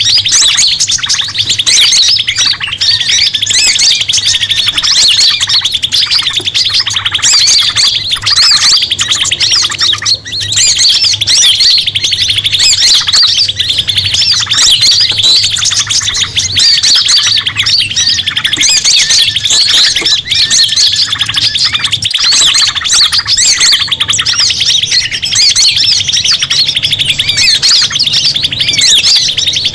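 Dense, loud chorus of many small birds chirping and squawking at once without pause: a 'ribut' bird-lure recording, the noisy commotion of mixed calls played to draw in forest birds.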